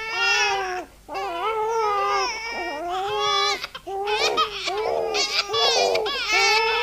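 A baby crying in repeated high-pitched wails, each under a second long, with short breaks for breath.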